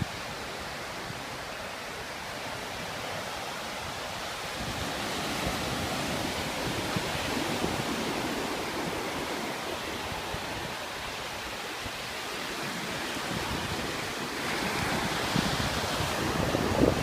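Ocean surf breaking and washing onto a beach, swelling and easing as waves come in, loudest near the end. Wind buffets the microphone.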